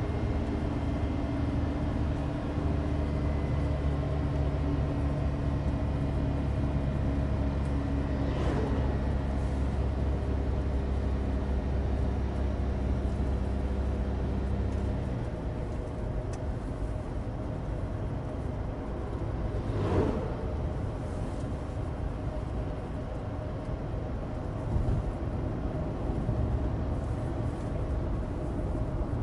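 Cabin noise inside a 2016 Suzuki Alto Turbo RS on the move: the 660 cc three-cylinder turbo engine runs steadily under tyre and road noise. The engine note drops away about halfway through, leaving mostly road noise. Two brief whooshes of vehicles pass by, one before and one after the engine drops away.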